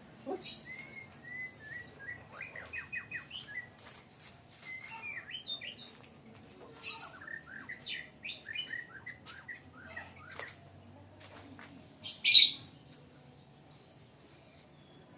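Young sooty-headed bulbul chirping: quick runs of short, rising chirps through the first ten seconds, then one loud, harsh burst about twelve seconds in.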